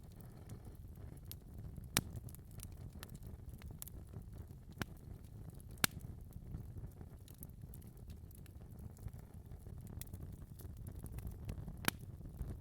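Fire in a fireplace crackling: a steady low rumble of flames with scattered snaps and a few louder pops spread through.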